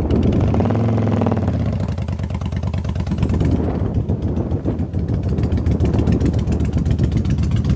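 Motorcycle engine running steadily while the bike is ridden along a dirt road. Its pitch rises and falls briefly about a second in, then settles into a steady drone.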